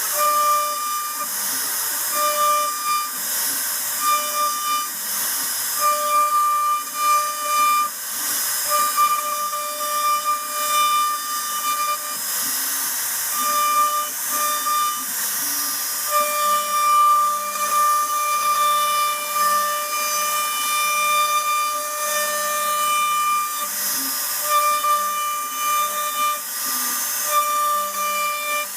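CNC router spindle whining at a fixed high pitch over a steady hiss as the bit cuts, the whine cutting in and out every second or so.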